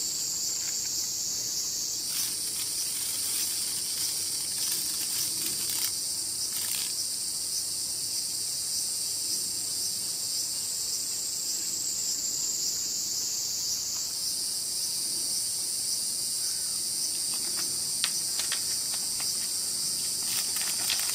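Cicadas singing: a steady, high-pitched buzzing chorus whose pitch pattern shifts about 2 seconds in and again about 14 seconds in. Faint ticks and rustles come near the end.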